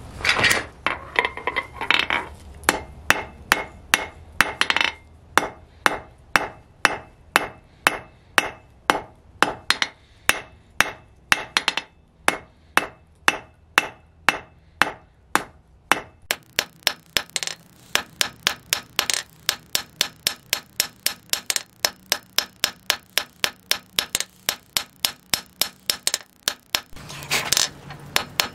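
Hand hammer striking spring steel from a car coil spring on an anvil, a steady run of ringing blows at about two a second that quickens to about three a second past the midpoint.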